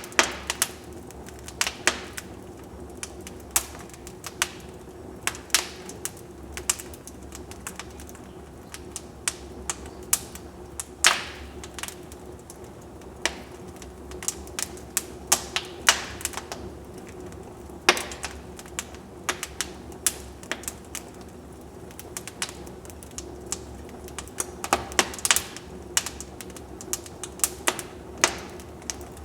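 Wood fire crackling in a fireplace: irregular sharp pops and snaps over a steady low rumble and hiss of the burning logs, with a few louder snaps about 11 seconds in and near the end.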